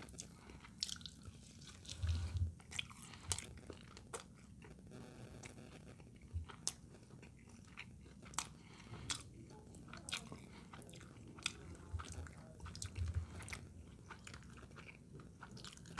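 A person chewing a mouthful of cheese-topped hamburger patty close to the microphone, with scattered soft mouth clicks and smacks and a few low thumps.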